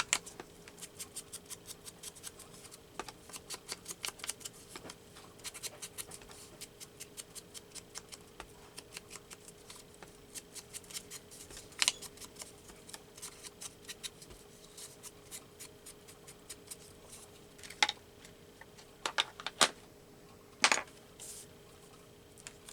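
Ink being applied to paper with quick, repeated rubbing strokes, several a second, scratchy against the paper surface. In the last few seconds a handful of louder sharp knocks, like tools or the ink pad set down on the table.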